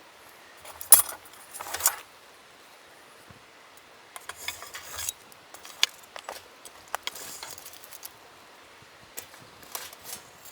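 Things being handled: short bursts of rustling with sharp light clicks and clinks scattered through, loudest about a second in.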